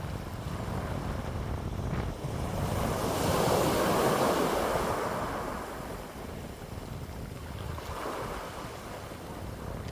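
Wind blowing, with one gust that swells about three seconds in and dies away a few seconds later, and a low rumble of wind buffeting the microphone.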